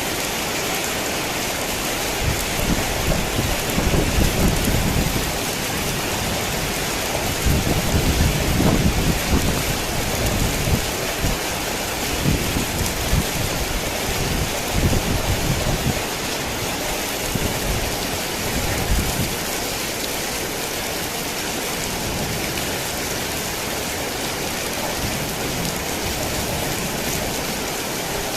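Heavy rain falling in a steady hiss, with low rolling rumbles of thunder swelling and fading through the first two-thirds before the rain carries on alone.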